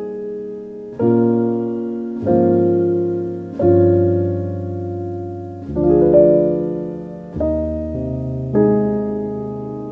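Soft, slow piano music: sustained chords struck about every second and a half, each left to ring and fade before the next.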